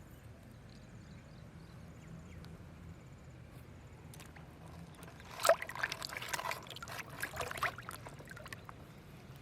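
Water splashing and sloshing in a quick irregular flurry for about two and a half seconds, starting a little past halfway, over a low steady background hum.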